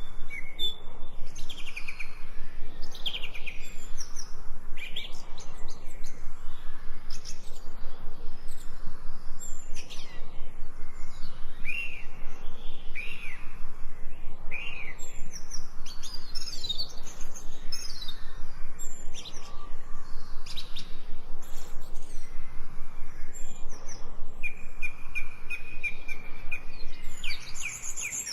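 Several songbirds chirping and singing over each other, many short whistled notes overlapping, with a fast repeated trill near the end.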